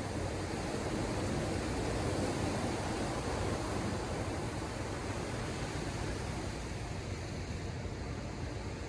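Ocean surf washing onto the shore, a steady rushing wash that swells slightly a couple of seconds in.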